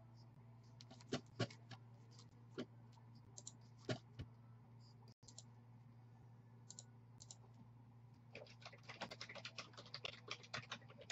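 Typing on a computer keyboard: a few scattered key clicks, then a quick run of keystrokes in the last few seconds, over a steady low hum.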